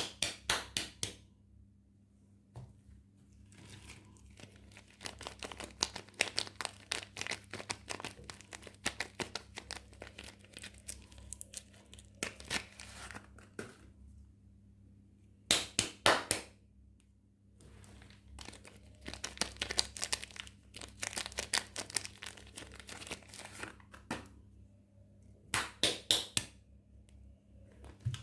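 Soap wrapping being crinkled and torn open by hand, in bursts of dense crackling and tearing broken by short pauses.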